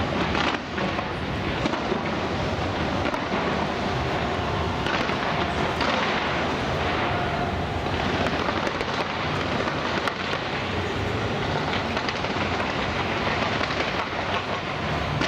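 Aerial fireworks going off in a dense, continuous barrage: many overlapping bursts and crackles merge into a steady rumble with no pause.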